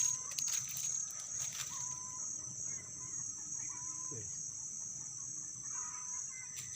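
Insects buzzing steadily on one high pitch, with a few short, flat bird calls repeating at intervals and a lower falling call about four seconds in.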